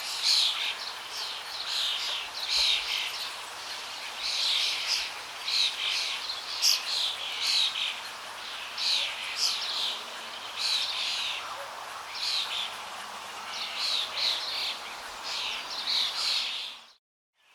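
A chorus of many small birds chirping and twittering rapidly over a steady rush of flowing water. The sound cuts out abruptly just before the end.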